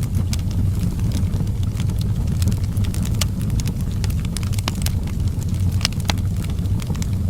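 Wood fire burning: a steady low rumble of flames with frequent sharp crackles and pops scattered throughout.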